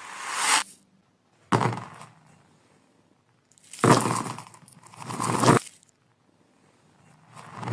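Marbles rolling and clattering on a marble run, played in reverse: rushes of rattling that build up and then cut off abruptly, four times, with one more burst about a second and a half in that starts sharply and fades.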